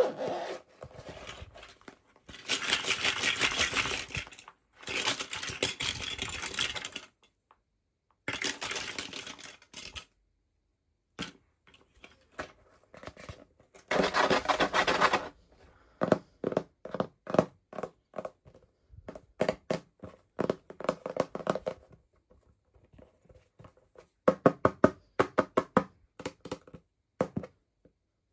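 Toy packaging being opened by hand: several bursts of tearing and rustling, then, about halfway through, runs of quick clicks and taps as plastic parts are handled.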